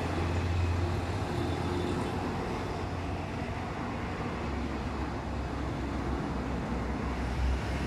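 A vehicle engine running steadily, a low rumble that grows louder near the end.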